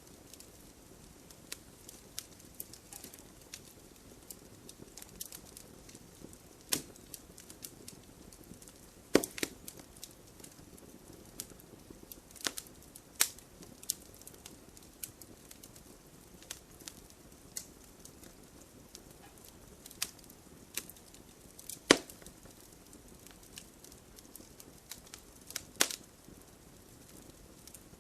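Wood fire in a fireplace crackling, with irregular sharp pops over a faint steady hiss; the loudest pops come about 9 and 22 seconds in.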